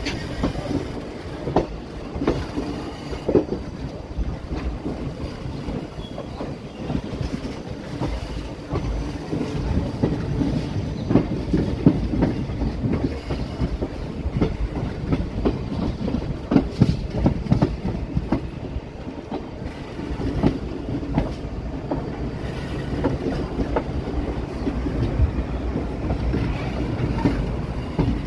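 Indian Railways passenger coach running along the track, heard from its open door: a steady rumble with wheels clacking irregularly over rail joints, the knocks bunching up about ten to eighteen seconds in.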